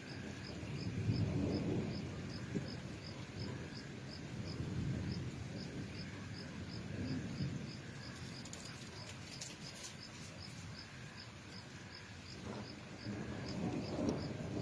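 A cricket chirping steadily, about three short high chirps a second, over low rumbles of distant thunder that swell and fade near the start, in the middle and again near the end.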